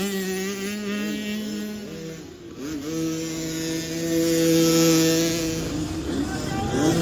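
Youth 50cc two-stroke motocross bike engines racing at high revs. The pitch drops briefly about two and a half seconds in, then climbs and holds again, with more than one engine heard at times.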